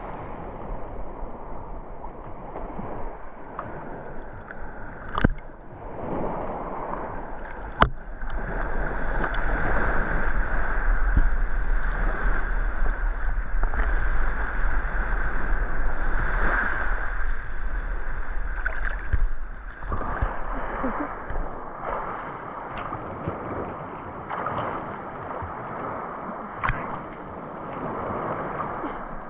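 Sea water sloshing and washing, with two sharp clicks about five and eight seconds in.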